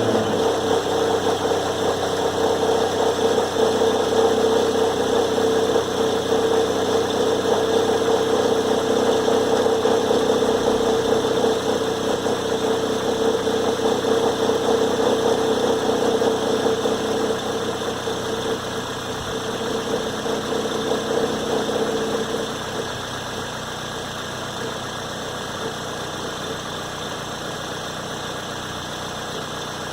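2006 Toyota Corolla running with a loud, steady hum on top of the engine sound, which cuts out about three quarters of the way through and leaves a quieter idle. This is the noise the owner hears after a cold start with the transmission in Drive or Reverse; it does not occur in Park or Neutral or once the car has run for about two minutes.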